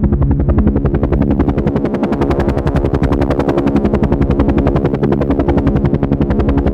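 Helicopter running steadily overhead: a fast, even beat of rotor blade chop over a constant engine drone.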